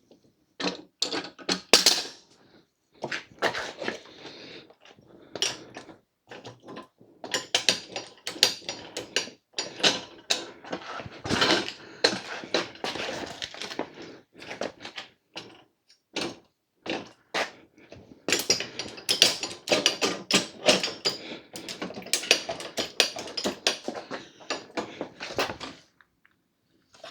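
Metal clattering from a hydraulic scissor motorcycle lift being handled: quick runs of clicks, knocks and rattles, broken by a few short pauses.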